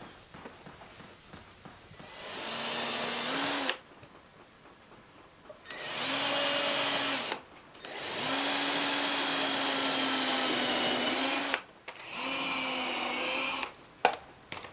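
Power drill running in four bursts, the longest about three seconds, each starting and stopping abruptly as it drives fasteners into the door framing. A single sharp knock comes near the end.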